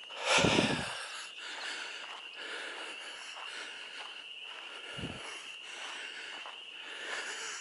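Frog chorus calling steadily, a continuous high trilling drone. Two brief low puffs on the microphone, about half a second in and again about five seconds in.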